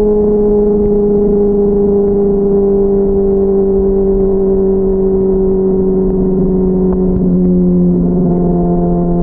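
Honda CBR600RR inline-four engine running at steady revs, its pitch slowly easing down, then dropping a step lower about eight seconds in, heard muffled through a backpack.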